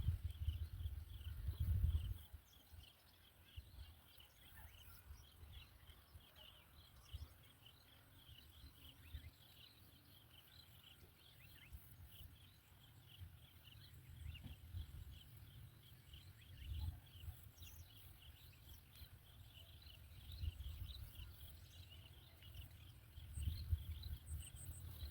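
Faint outdoor ambience: a steady run of short, high insect-like chirps, with low rumbling thuds in the first couple of seconds and again in the last few seconds.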